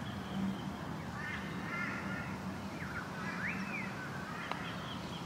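Birds calling in the background with short rising and falling chirps, then a single light click about four and a half seconds in as a putter strikes a golf ball.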